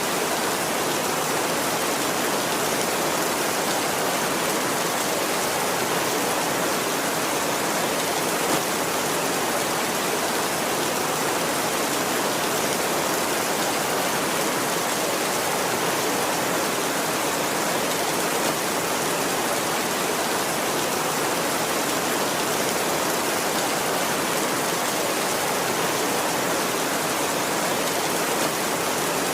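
Heavy rain falling steadily on a tin roof, at an even level throughout, with no thunder.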